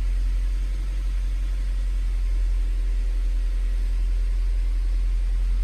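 Honda CR-V's B20B four-cylinder engine idling steadily on new spark plugs and plug wires, running without the misfire it had before the tune-up.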